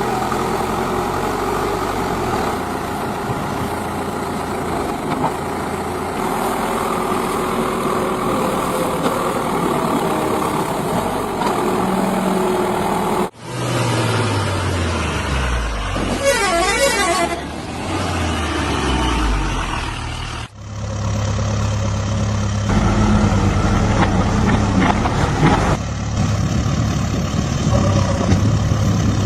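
Diesel engines of a JCB 5CX backhoe loader and trucks running, in three clips joined by sudden cuts. In the middle clip an engine's pitch falls as it slows.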